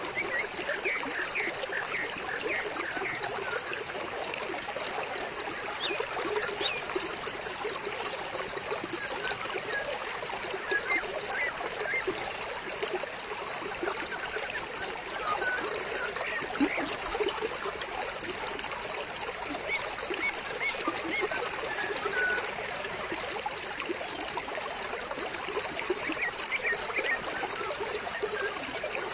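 Water in a stream flowing and trickling steadily, with small birds chirping now and then over it.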